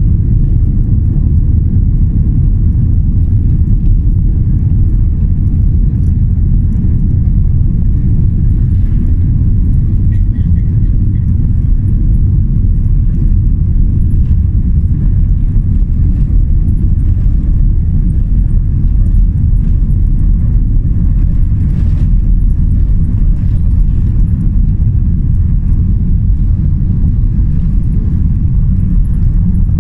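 Steady, loud low rumble of airliner cabin noise inside a Boeing 787 Dreamliner, with no change in pitch.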